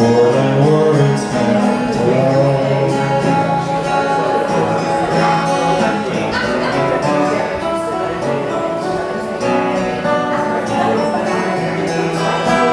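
Live folk-rock song with guitar playing a passage without words.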